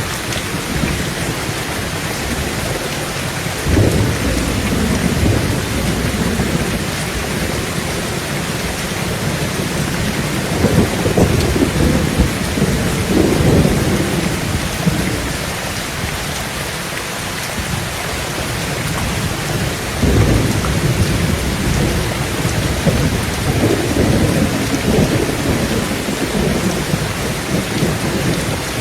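Heavy rain pouring steadily onto a tin roof, with low rolls of thunder swelling and fading several times.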